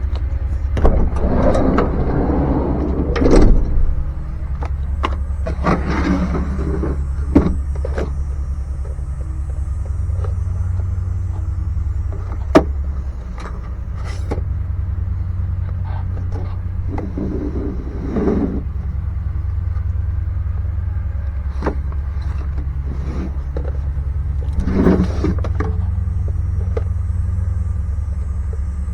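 Steady low hum, with intermittent clicks, clatter and rustling of parts and tools being handled.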